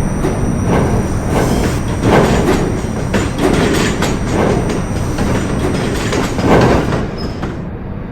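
R68A New York subway train running between stations: a loud, steady rumble with repeated clacks of the wheels over the rails. It grows quieter near the end.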